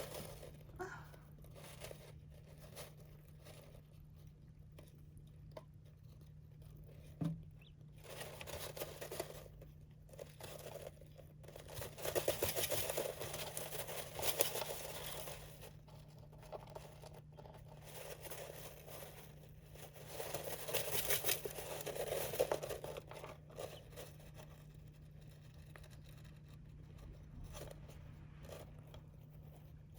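Birds scratching and scattering sand in a sand bath, heard as spells of scratchy rustling with small ticks, over a faint steady low hum.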